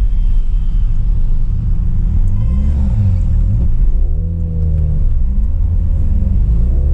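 Mazda RX-7's rotary engine running while the car is driven. The engine pitch rises and falls a couple of times as the revs change.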